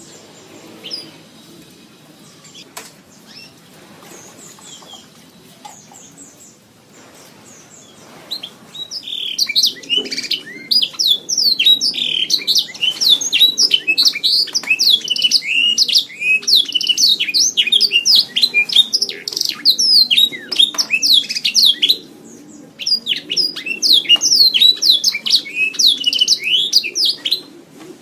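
Domestic canary singing: after a few quiet seconds with faint chirps, a long run of fast, high trills and rolling phrases, breaking off briefly about two-thirds of the way in and then going on.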